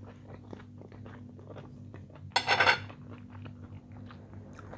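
Close-up eating sounds: small wet chewing and mouth clicks from a mouthful of fried eggplant and bread. A little past halfway there is one sudden loud noisy burst lasting about half a second.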